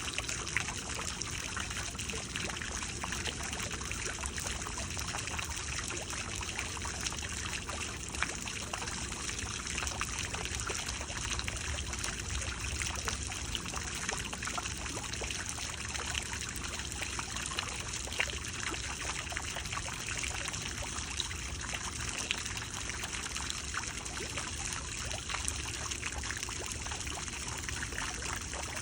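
Running water trickling and splashing steadily, with many small droplet sounds and no surges or breaks.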